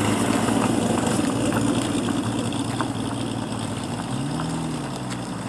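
Car engine running as the car pulls away, its sound slowly fading, with a brief rise and fall in engine pitch about four seconds in.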